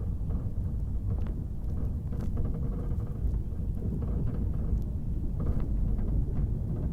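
Passenger train running, a steady low rumble with a few faint clicks scattered through.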